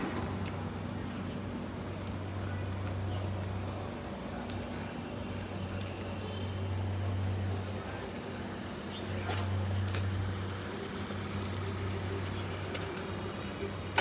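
Street traffic: a motor vehicle's engine running close by, its low hum swelling and easing off several times.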